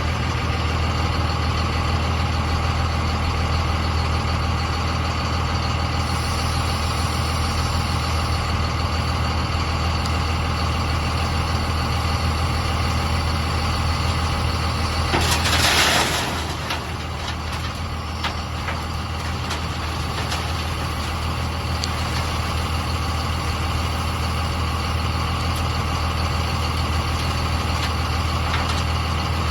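A heavy vehicle engine runs steadily with a strong low hum. About fifteen seconds in there is a brief loud hiss of air, lasting about a second.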